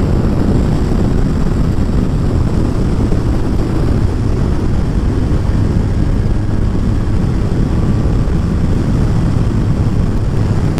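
Kawasaki ZZR1400 inline-four motorcycle ridden at a steady speed: loud, steady wind rush on the rider's microphone with the engine's even drone underneath.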